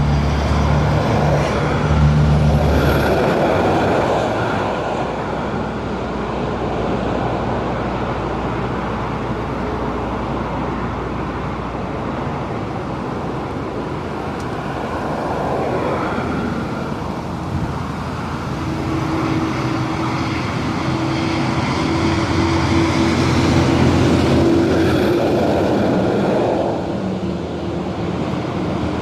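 Road traffic crossing a bridge: trucks and cars going past with engine and tyre noise, and a louder pass near the start and another near the end. A steady whine from a passing vehicle runs through the second half.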